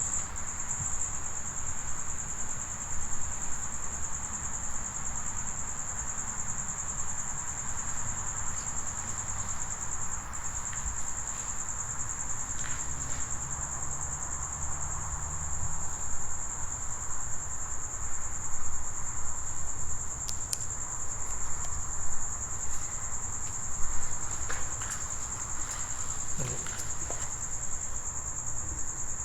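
Crickets chirping in a steady, high-pitched chorus, over a low rumble, with a few soft clicks about two-thirds of the way in.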